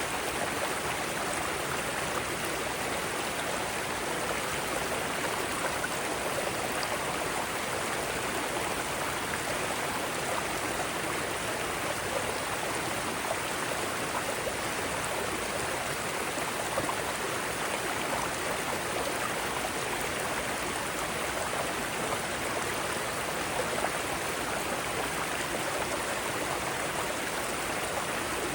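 Mountain stream flowing steadily over rocks in small cascades, an even rushing and splashing of water.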